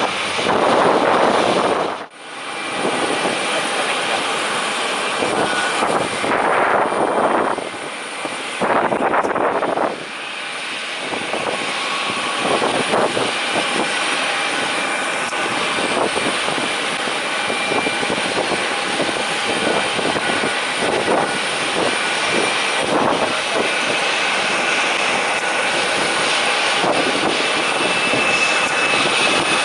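Wind buffeting the microphone in irregular gusts over the steady whine of a parked Airbus A350-900 jet airliner, with a few thin high tones running through the noise.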